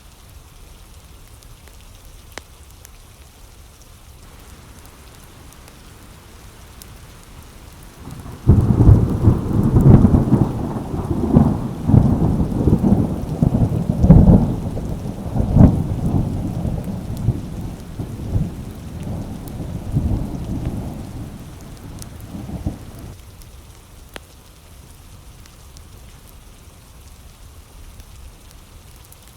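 Steady rain, with a long rolling thunderclap that breaks out suddenly about eight seconds in, rumbles through several peaks and dies away after about fifteen seconds.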